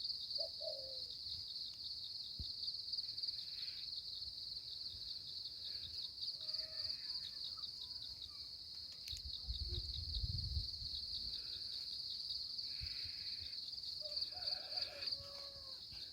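A steady, high-pitched insect trill, like crickets or cicadas, runs on with a fast pulsing texture. A few faint bird calls come through, near the start and again near the end.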